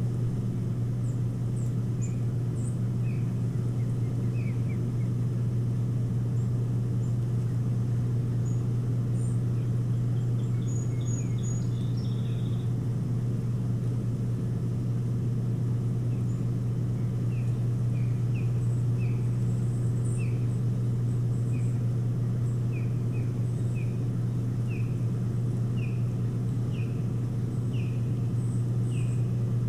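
A steady low hum under a bird's series of short, falling calls that repeat about twice a second through the second half, with fainter high chirps scattered throughout.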